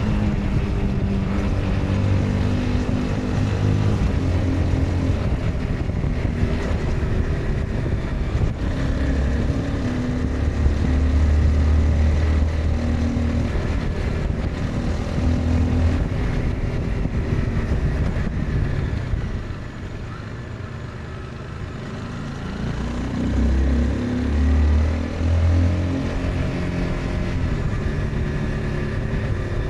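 Honda CBR 250R's single-cylinder engine running under way, its pitch rising and falling with the throttle. About two-thirds through it drops to a quieter off-throttle run, then picks up again with a couple of short revs.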